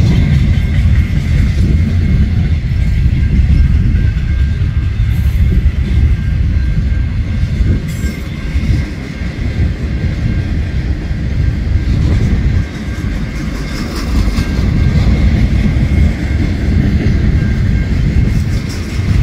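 Freight train flatcars loaded with wind turbine blades rolling past on the rails: a steady low rumble of wheels on track, briefly dropping about two-thirds of the way through, with a faint steady high ring under it.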